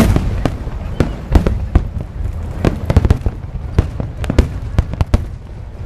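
Fireworks going off in quick, irregular succession: sharp cracks and bangs several times a second over a steady low rumble of the display.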